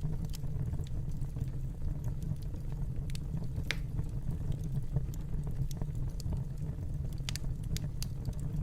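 Fireplace fire burning with a steady low rumble, broken by scattered sharp crackles and pops, several of them in a cluster around the middle and again near the end.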